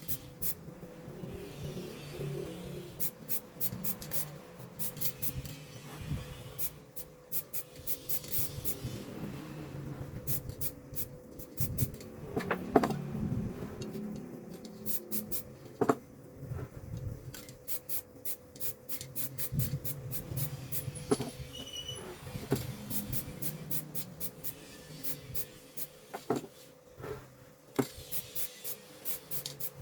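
Rubbing and scraping during hand work, with clusters of rapid fine clicks and a few sharp knocks, over a steady faint hum.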